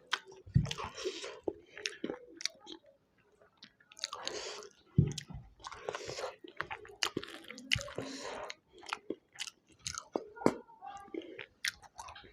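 Close-miked chewing by a person eating, with many short mouth clicks and smacks in an irregular run.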